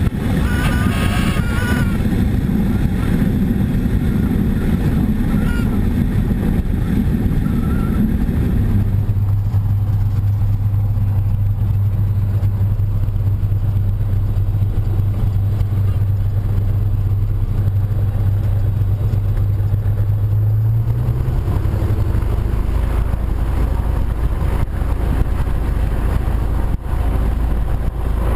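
Cessna 172's piston engine and propeller droning steadily. A steady low hum sets in about a third of the way through, rises briefly in pitch about two-thirds of the way in, then settles lower.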